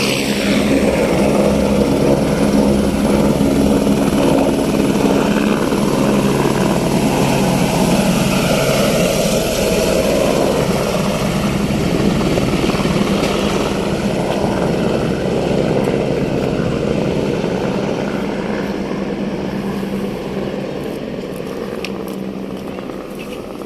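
Helicopter turbine and rotor running steadily, with a constant drone that grows gradually quieter over the last several seconds.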